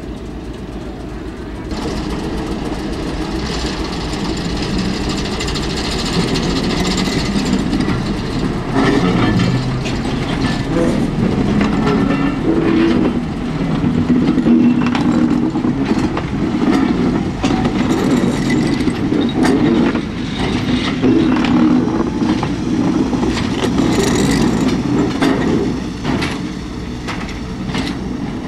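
Preserved Class 303 electric multiple unit cars rolling slowly past behind a diesel locomotive: a steady rumble of wheels on track, with a long run of irregular clicks and knocks as the wheels cross rail joints.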